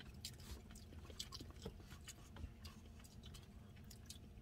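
Faint chewing: scattered small clicks and smacks of someone eating chicken wings.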